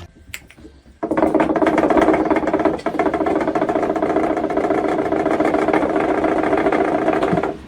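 A loud, steady motor-like drone with a fast, even pulse starts suddenly about a second in and cuts off near the end.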